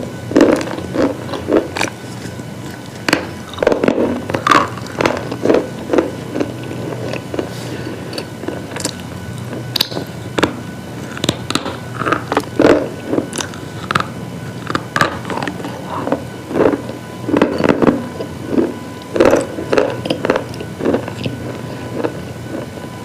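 Repeated crunching of brittle slate pieces, coming in irregular clusters of several sharp crunches with short pauses between them, over a faint steady hum.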